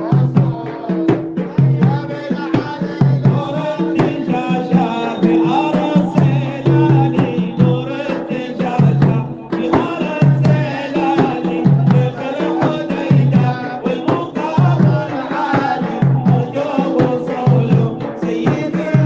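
Male voice chanting an Arabic shalla with a group over a steady, regular drum beat and a held drone underneath.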